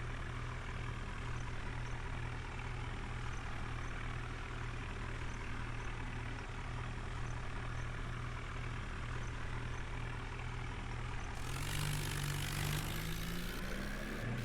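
New Holland tractor's diesel engine running steadily at low speed, then revving up near the end, its pitch rising.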